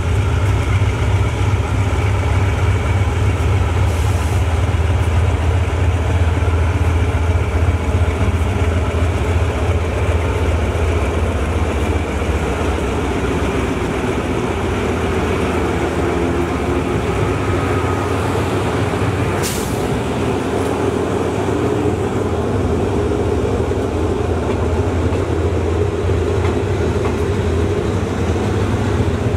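A GEA-class (GE CM22-7i) diesel-electric locomotive running past with a steady low engine drone, followed by its passenger coaches rolling by on the rails. One short sharp click about twenty seconds in.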